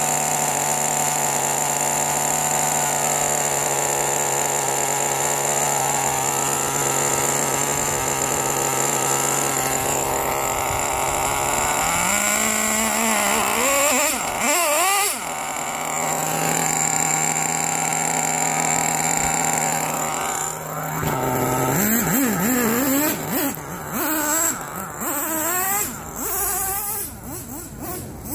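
Dynamite Mach 19 two-stroke nitro glow engine in a Traxxas T-Maxx RC truck, freshly started and idling steadily, revved once about twelve seconds in and then blipped repeatedly in short throttle bursts near the end. It is running pretty rich.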